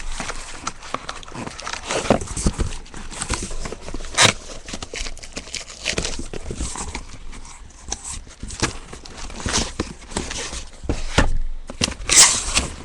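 A cardboard shipping case being opened and handled on a table: irregular knocks, scrapes and rustling of cardboard and tape.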